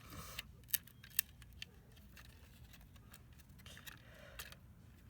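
A few sharp snipping clicks and soft handling rustles as a capacitor is worked off the router's circuit board.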